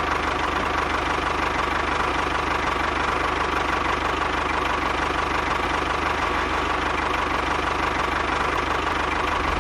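A small motor running steadily, with a fast, even rattle and a constant whine.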